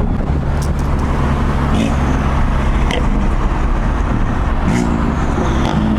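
Turbocharged car engine running steadily at low revs under road noise while driving, its pitch rising briefly about five seconds in.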